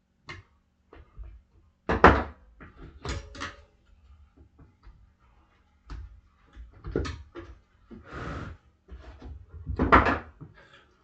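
Steel tire irons knocking and clanking against a dirt bike wheel rim as the tire bead is pried off. Several separate sharp knocks, the loudest about two seconds in and near the end.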